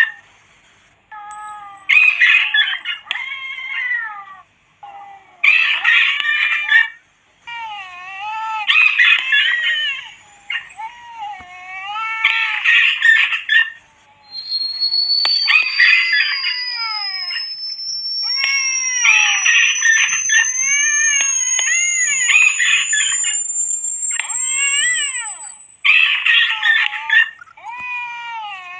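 Rat-repellent sound mix: cat yowls and squealing animal cries repeat in bursts every second or two, over a thin high electronic tone that slowly rises in pitch.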